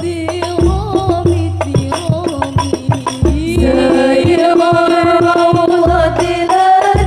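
Sholawat al-Banjari: frame drums struck in a fast interlocking rhythm with deep bass-drum beats, and voices singing, holding one long note through the second half.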